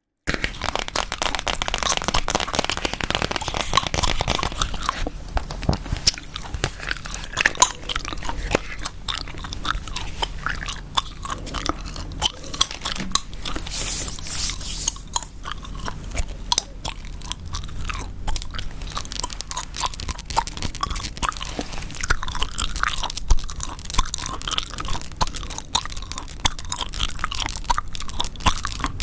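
Chewing gum close to the microphone, with a steady stream of quick, closely packed mouth clicks.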